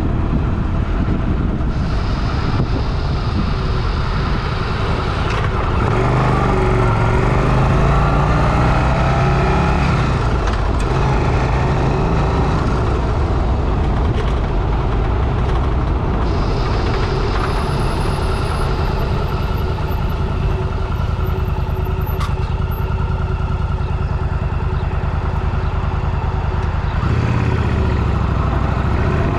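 Motorcycle engine running under way, heard from a helmet-mounted camera with steady wind rush over the microphone. The engine pitch rises and falls with the throttle a few times, around six to eight seconds in and again near the end.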